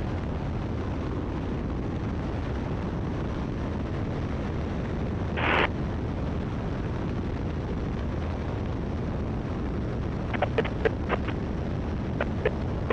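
Steady drone of a Great Lakes open-cockpit biplane's engine and the wind in cruise flight, heard through the cockpit intercom. About halfway through, a short burst of radio squelch, and near the end a few sharp radio clicks.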